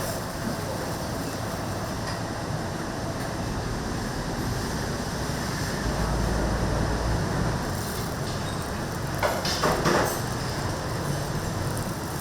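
Steady street traffic rumble, swelling louder about six seconds in, with a brief clatter near the ten-second mark.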